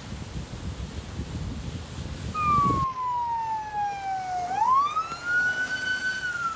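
A steady rushing hiss, then about two and a half seconds in an emergency vehicle siren starts wailing: a slow falling tone that swings back up and holds high.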